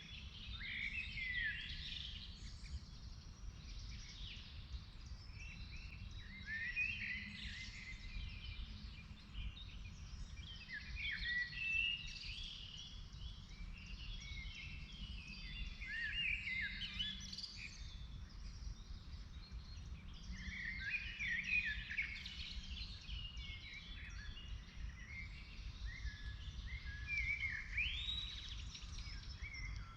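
Woodland birds singing and chirping, several voices overlapping with no break, over a low steady rumble.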